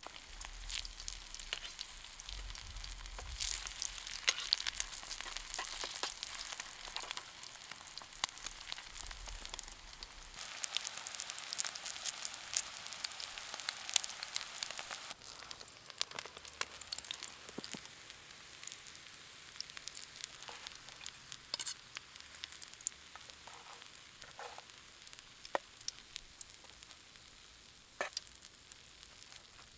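Food frying in a pan: a dense sizzle full of small pops that thins out after about fifteen seconds to scattered pops.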